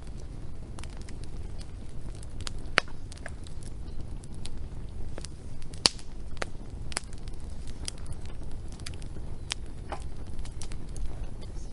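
Wood fire burning with irregular sharp crackles and pops over a low steady rumble of flames; the loudest pop comes about six seconds in.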